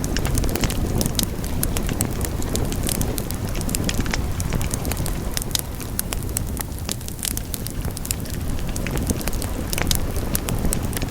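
Wood fire burning in a fireplace: a steady low rumble of flames with frequent sharp crackles and pops of burning wood, thinning out a little past the middle.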